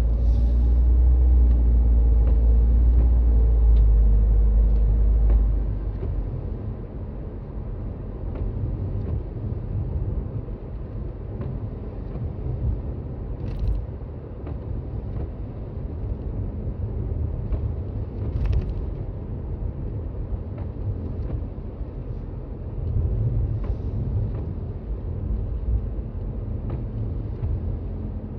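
Toyota Raize Z 4WD driving on snowy roads, heard from inside the cabin: a steady low rumble of tyres and engine, loudest for about the first five seconds, then settling lower, with a few faint clicks and three short hisses.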